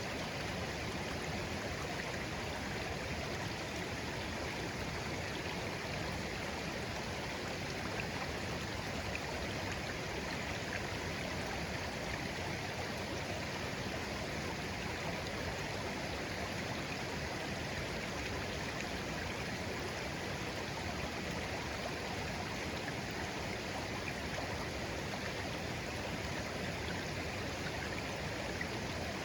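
Shallow stream babbling steadily over stones, an even rushing and gurgling of flowing water.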